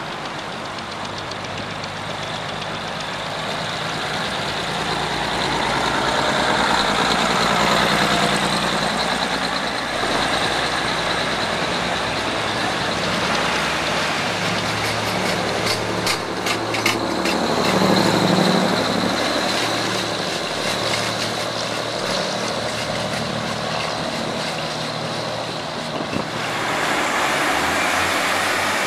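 Diesel multiple-unit trains running at station platforms: their engines run steadily, swelling as a train passes, with a run of sharp clicks about halfway through.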